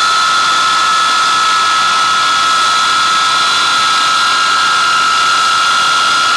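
Avro Vulcan XM655's Rolls-Royce Olympus turbojets running loud and steady, a high whine held over the jet roar.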